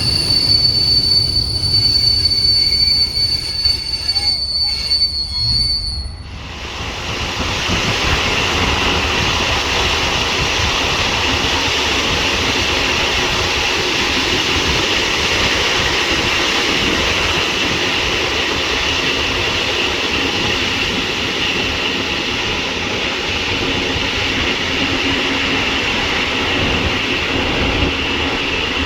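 Regional train running, heard on board: a steady high whine over a rumbling ride for about six seconds, then the sound changes abruptly to a louder, steady running noise with a hiss that carries on.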